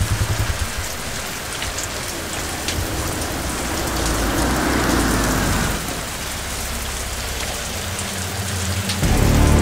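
Heavy rain pouring down steadily. A motorcycle engine idles under it at first, then a car drives up through the rain, its noise swelling and stopping abruptly a little before six seconds in. Music comes in near the end.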